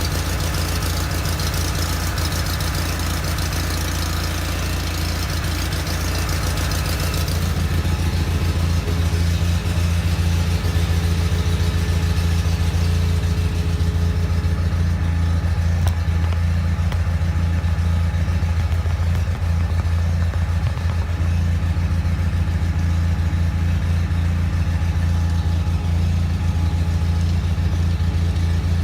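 John Deere 318 garden tractor's twin-cylinder engine running steadily at a constant speed. It gets a little louder from about eight seconds in.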